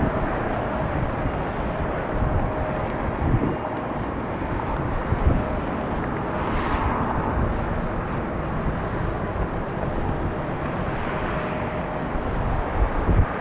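Boeing 757-300 airliner's jet engines on landing approach, a steady noise that swells about halfway through and then fades, with gusty wind buffeting the microphone.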